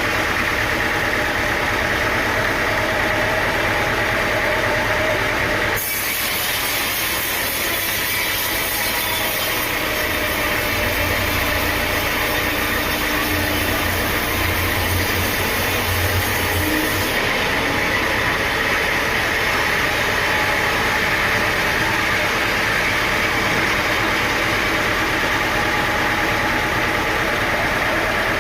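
Sawmill machinery running steadily, a constant engine hum under hissing noise, with an abrupt change in the sound about six seconds in.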